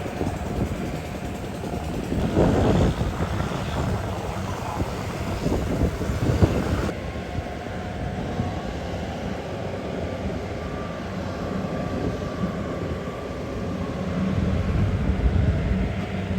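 Rice combine harvester engine running steadily in a flooded paddy, with a louder rush a couple of seconds in and another near the end.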